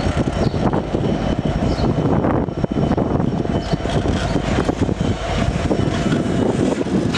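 Freight train of autorack cars rolling past: a steady, loud rumble and clatter of steel wheels on the rails.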